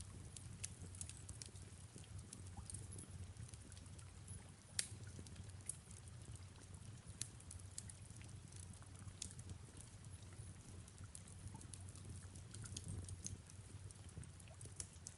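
Faint fireplace crackling: irregular sharp pops and snaps, one louder about five seconds in, over a steady low rumble, with soft rain ambience.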